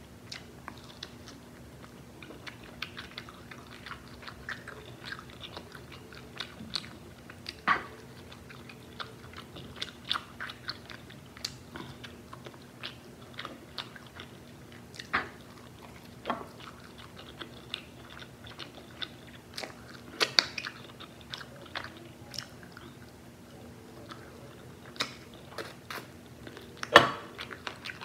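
Close-miked chewing and biting of crispy fried chicken: wet mouth clicks and crackly crunches of the breaded crust, with a few louder bites standing out, the loudest near the end.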